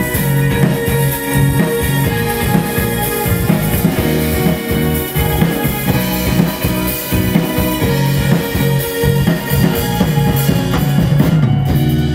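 Live rock cover band playing an instrumental passage, with drum kit and bass beat under sustained guitar and keyboard tones.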